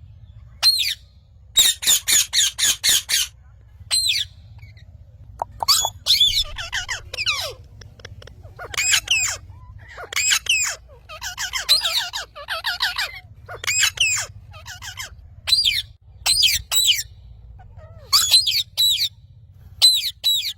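Parrots squawking: repeated short, harsh calls and chatter in bursts, including a quick run of several calls near the start.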